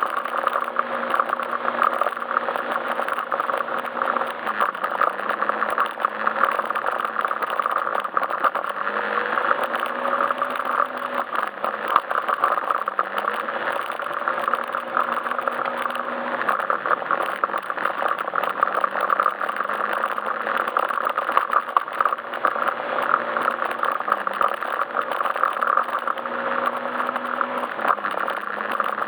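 Yamaha Majesty S scooter's single-cylinder engine running under way, its pitch stepping up and down slightly every few seconds as the throttle is opened and eased, over a steady rattling hiss.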